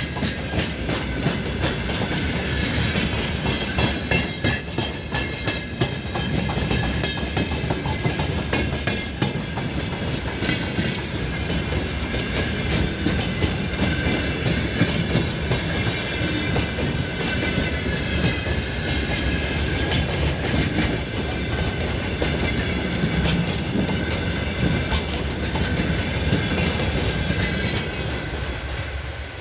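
Freight train wagons rolling past, their wheels clacking steadily over the rail joints with a high metallic ringing above; the sound begins to fade near the end.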